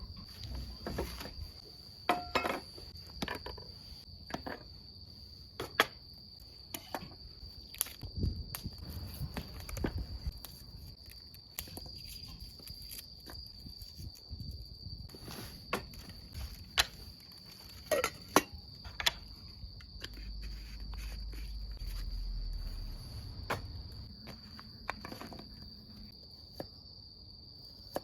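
Crickets singing in a steady, high-pitched chorus, with scattered irregular clicks and knocks over it.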